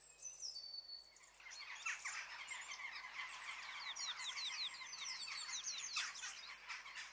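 Birds singing faintly, a chorus of many short, high chirps sliding down in pitch and overlapping, denser from about a second and a half in.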